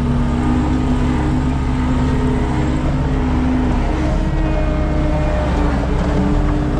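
Skid steer engine running steadily under work, with tones that step up and down in pitch every second or two as it is worked.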